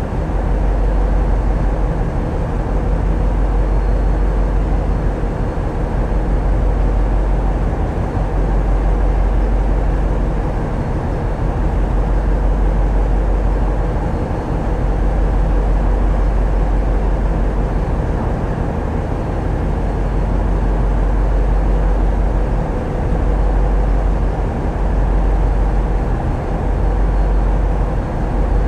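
Tugboat's diesel engines running steadily, a constant low rumble and hum.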